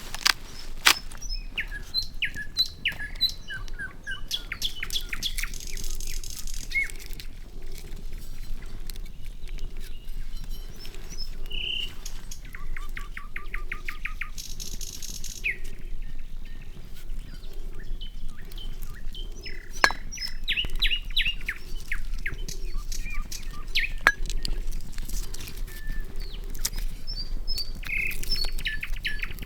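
Several forest birds chirping and singing, with one trilling a quick run of even notes about twelve seconds in. Sharp pops and crackles from a wood campfire sound among them, the loudest a few snaps about a second, twenty seconds and twenty-four seconds in.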